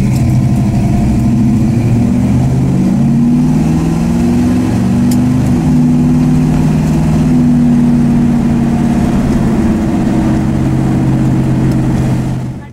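1966 Dodge Dart GT's engine heard from inside the cabin while driving, rising slowly in pitch, dropping about halfway through, then running steady. The sound fades out at the very end.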